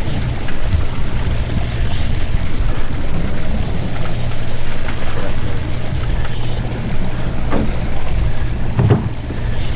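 Boat engine running steadily as a low hum, with wind on the microphone and sea noise. A couple of brief knocks come near the end.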